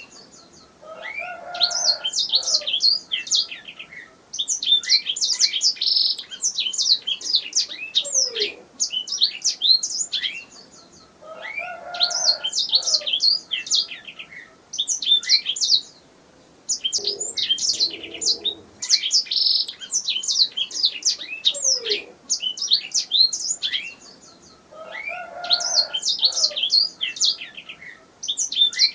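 Canary singing: long phrases of rapid, high trills and chirps, broken by short pauses every few seconds.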